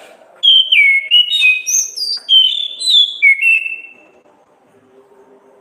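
Orange-headed thrush (anis kembang) singing one loud phrase of rapid whistled notes that step and slide up and down in pitch, lasting about three and a half seconds before it stops.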